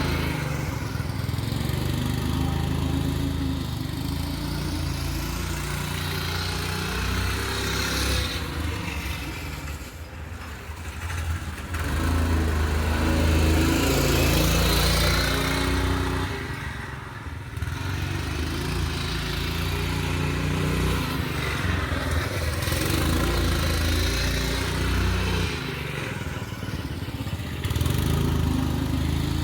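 Small engine of a homemade two-wheel-drive motorcycle, its governor removed, running under throttle as the bike is ridden. The engine note eases off and picks up again twice, about a third of the way in and again past halfway.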